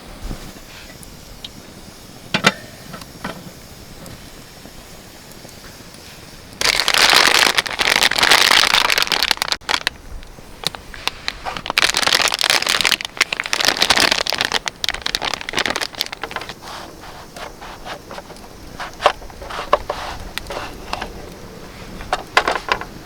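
Campfire crackling with scattered sharp pops and clicks. About seven seconds in, and again near twelve seconds, there are two loud stretches of dense rustling, hissing noise.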